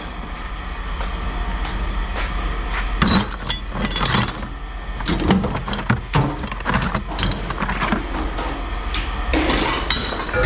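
Pieces of scrap metal being tossed and sorted, clanking and clinking against one another in a run of sharp knocks that starts about three seconds in, over a steady low hum.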